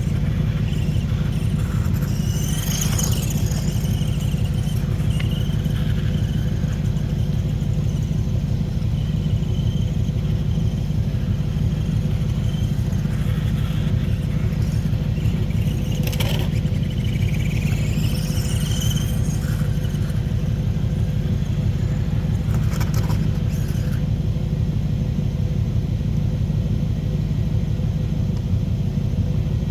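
Old toy-grade 1/5-scale RC motorcycle's small electric drive motor running with a steady hum, a few short high chirps and scrapes over it.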